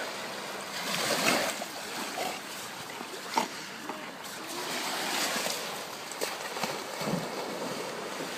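Water splashing and lapping in uneven surges, with a single sharp knock about three and a half seconds in.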